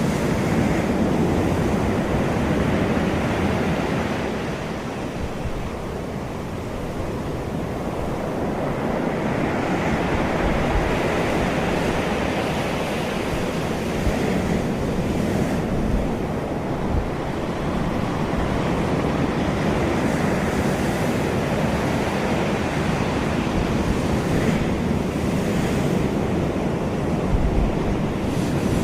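Sea waves washing onto the shore with wind blowing across the microphone; the surge eases a few seconds in, then builds again.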